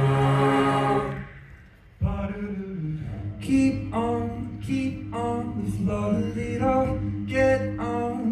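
A cappella vocal group singing without words. A held chord fades out in the first second or so and there is a brief pause. Then a sung bass line comes in under rhythmic chord stabs, about two a second.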